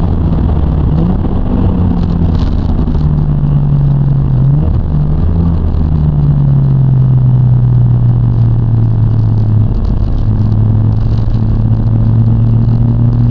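Mazda RX-7 FD3S twin-turbo rotary engine heard from inside the cabin while cruising: a steady low drone over road noise, its pitch shifting several times with speed.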